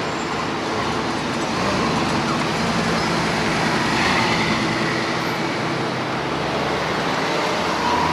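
Car engines running over a steady wash of traffic noise.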